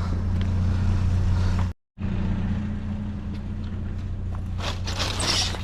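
Pickup truck engine running steadily with a low, even hum. The sound drops out completely for a moment about two seconds in, then the same hum carries on.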